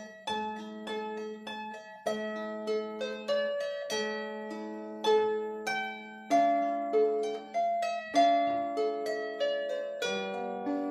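26-string diatonic Celtic harp being played: a melody of plucked notes, each ringing on and fading, over a repeated low bass note.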